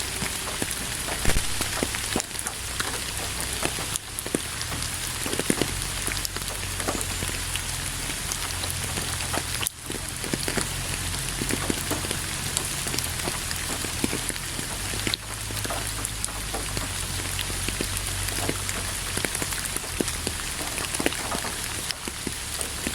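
Steady rain falling over a constant hiss, with many drops landing close by as sharp individual ticks on a surface.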